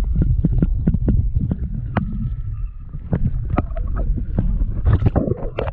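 Wind buffeting the microphone in a heavy low rumble, with a run of irregular clicks and knocks, about four or five a second.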